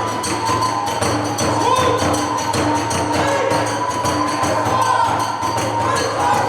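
Kagura festival music: a bamboo kagura flute holding a wavering high melody over steady taiko drumbeats and the jangling clash of small tebyoshi hand cymbals.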